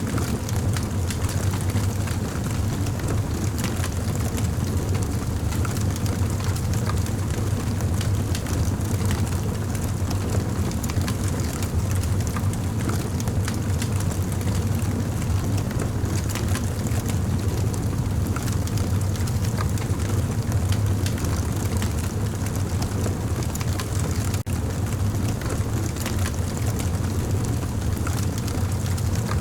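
Campfire burning: a steady low rumble with many small crackles and pops throughout.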